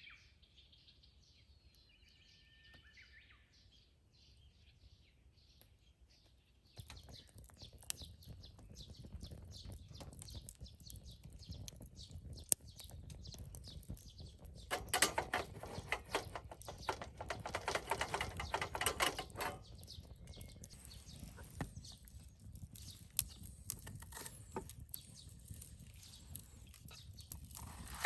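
Faint bird chirps, then about seven seconds in a run of small clicks and rustling starts, with a louder dense rustle for several seconds in the middle.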